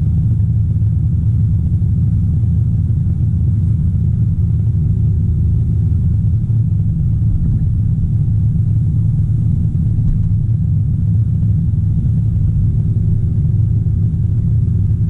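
Excavator's diesel engine running steadily under load, a low rumble heard from inside the cab.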